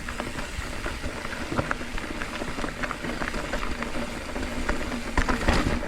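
Mountain bike riding over a rough dirt trail: a steady crunch of tyres with rattling clicks from the chain and frame, and a cluster of heavier knocks about five seconds in.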